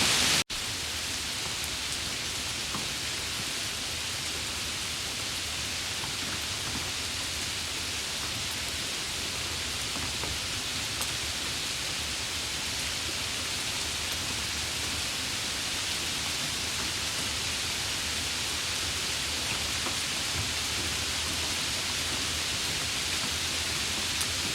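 Steady rain, an even hiss with faint scattered drop taps. The sound cuts out for an instant about half a second in and comes back a little quieter.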